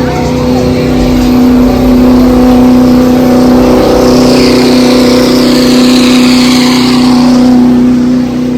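Car engine revved suddenly and then held at steady high revs during a burnout. High tyre squeal rises and falls over it in the middle.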